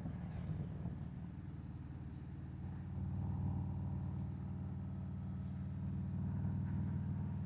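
Harley-Davidson Road Glide's V-twin engine running on the road with wind noise, picked up by a wireless mic inside the rider's helmet; the engine gets a little louder about three seconds in.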